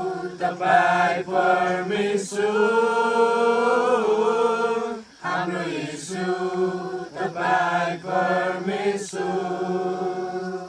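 Singing voices holding long notes over a steady low drone, in phrases with short breaks; the opening of a Nepali Christian worship song.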